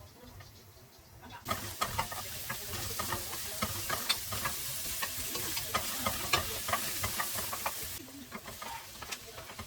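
Food frying in hot oil, a dense sizzle full of sharp crackles that starts abruptly about a second and a half in and cuts off about eight seconds in.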